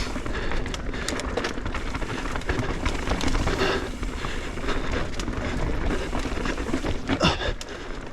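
Mountain bike riding down a dirt trail: tyres crunching and rattling over dirt and rocks, with scattered clicks and clatter from the bike and a steady rumble of wind on the microphone.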